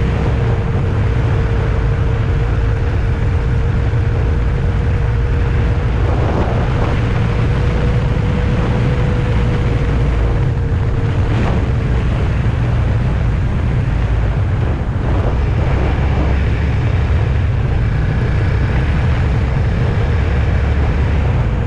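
Steady low rumble of a vehicle on the move, road and engine noise without letup, with a faint steady whine for the first half.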